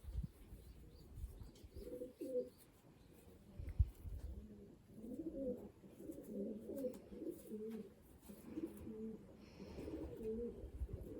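Racing pigeons cooing, low-pitched phrases repeating one after another from about two seconds in, with a few soft thumps.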